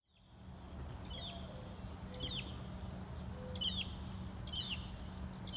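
A bird repeating a short, sharp chirp about once a second over a steady low hum and rumble. The sound fades in just after the start.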